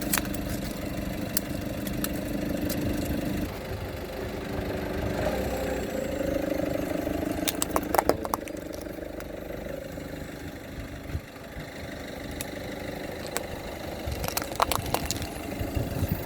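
A car engine idling as the car creeps along, with clusters of sharp cracks and crunches as objects are crushed under its tyres, about eight seconds in and again near the end.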